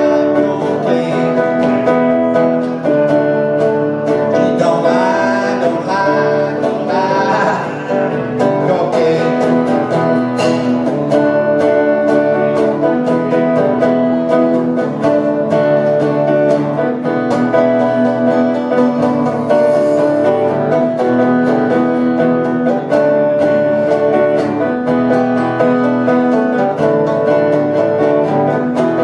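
Acoustic plucked-string music: guitar picking in a country or bluegrass style, playing an instrumental passage with a steady rhythm.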